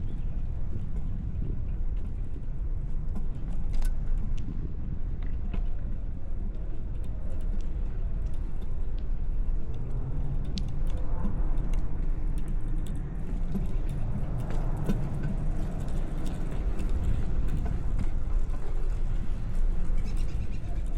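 Steady low rumble of riding a bicycle along a city street, with scattered light clicks and rattles, and traffic swelling up about halfway through.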